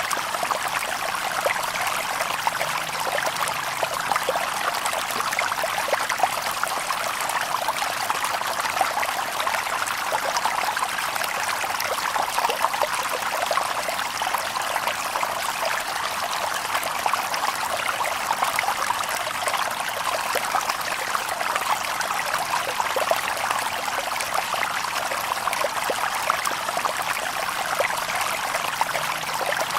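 Shallow stream babbling and trickling over stones, a steady bright splashing with many small gurgles and drips.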